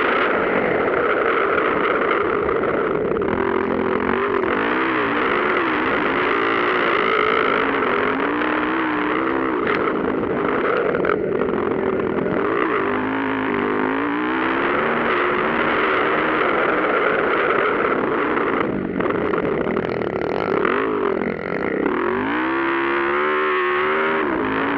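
Several motocross motorcycles racing, their engines revving up and down in overlapping waves. Near the end one bike's engine stands out as it revs hard close by.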